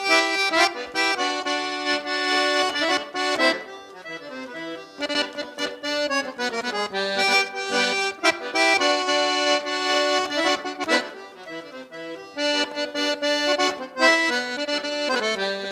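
Accordion (gaita) playing an instrumental passage of a traditional gaúcho song, full chords changing in a rhythmic pattern, before the vocals come in.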